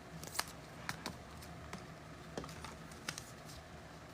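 Trading cards being handled and sorted on a table: faint, irregular light taps and clicks, about five sharper ones spread across the few seconds, over a low steady hum.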